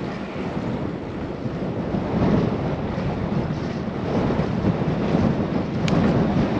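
Wind rushing over a helmet- or bike-mounted action camera's microphone while cycling, a steady low rumbling rush that swells and eases in gusts. A faint short high click about six seconds in.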